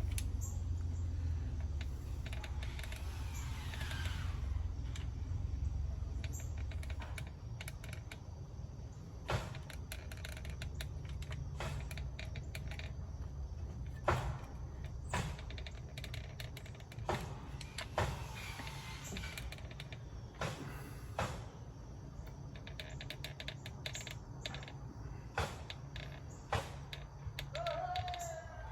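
Work noise from a neighbouring job site: scattered sharp knocks and clicks over a low rumble, the rumble heaviest in the first few seconds.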